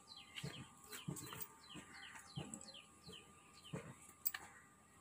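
Small birds chirping in quick runs of short falling notes, several a second, with a few soft low thumps in between.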